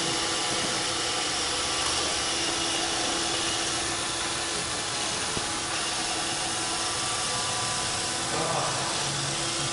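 Roomba 531 robot vacuum running with a steady motor whir and hiss.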